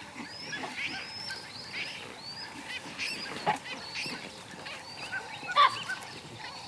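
A chorus of birds calling: many short, high, arched chirps overlapping one another, with one louder, sharper call about two thirds of the way through.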